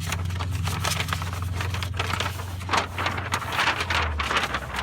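A vehicle on the move: a steady low engine drone under rushing road and wind noise.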